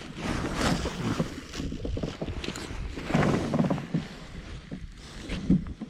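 Water sloshing and splashing around a fishing kayak in uneven swells, with small knocks of handling on board.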